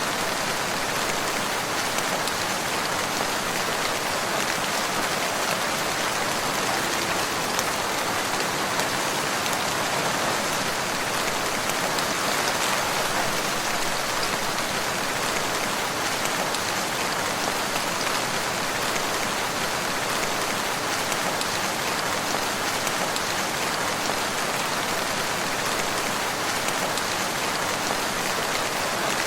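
Steady rain falling, a dense even hiss with the patter of many drops striking a surface.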